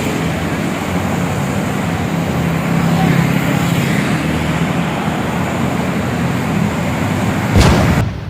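Truck driving on a highway: steady engine rumble and tyre and road noise, with a brief loud rush about seven and a half seconds in before the sound fades.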